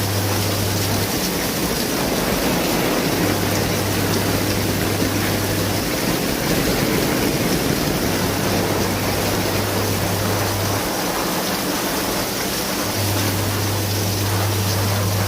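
Heavy rain falling as a steady, loud hiss, with a low hum that comes on for two to three seconds about every five seconds.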